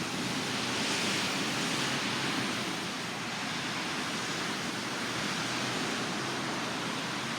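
Heavy rain falling steadily: an even hiss with no breaks.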